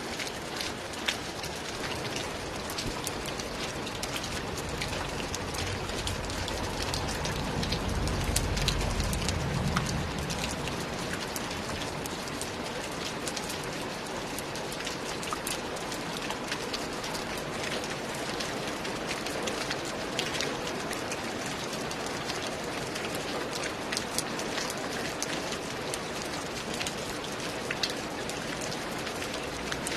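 Steady rainfall with many distinct drop hits. A low rumble swells briefly about eight seconds in.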